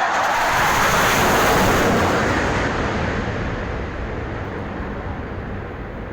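Aircraft flying low overhead: a loud engine roar that peaks about one to two seconds in, drops in pitch as it passes, then fades away slowly.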